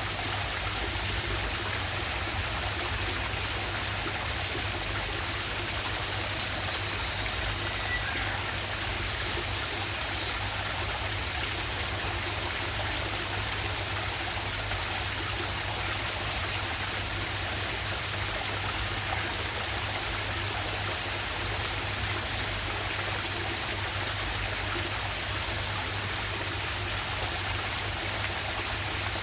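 Steady rush of water from a small jungle waterfall and stream, running continuously without change.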